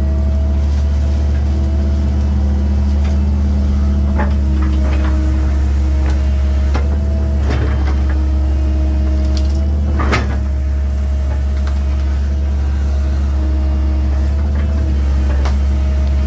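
1997 Link-Belt 2700 excavator's diesel engine running steadily with a low drone and a higher hum that drops in and out, as the machine tracks across soft ground. Scattered knocks and clanks, with one louder knock about ten seconds in.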